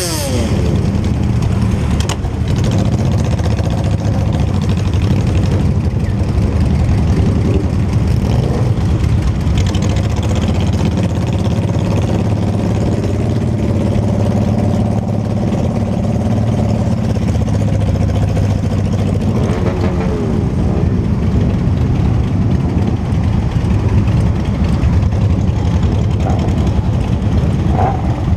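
Motorcycle engine running under way with a steady low rumble. The engine note shifts briefly around the start and again about two-thirds of the way through.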